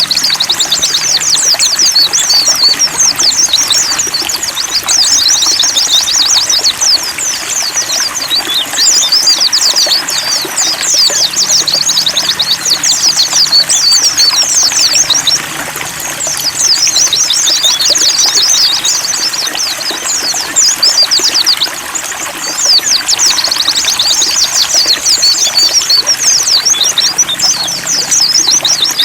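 Pleci (white-eye) birdsong: fast, high twittering song phrases running almost without break, with short pauses about fifteen and twenty-one seconds in, over steady trickling water.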